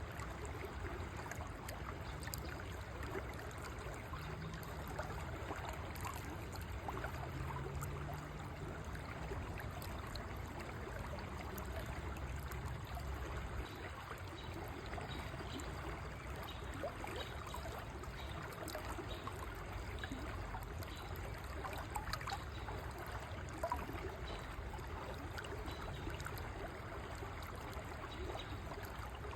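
River water flowing steadily, a constant rushing with small trickles and splashes scattered through it.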